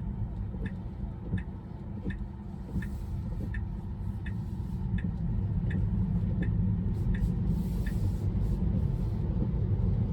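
Tesla turn-signal indicator ticking evenly, about once every 0.7 seconds, over the low rumble of road noise inside the car's cabin; the ticking stops about eight seconds in.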